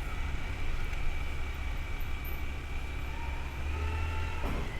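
Steady low rumble of a motorcycle riding through city traffic, engine and road noise together. About three seconds in, a high held tone sounds for over a second and then stops.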